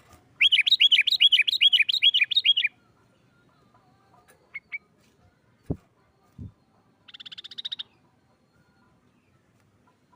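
Sooty-headed bulbul (kutilang) calling: a loud, fast run of repeated notes, about six a second, lasting a little over two seconds. Later come two short chirps and a brief buzzy rattle, with two low thumps in between.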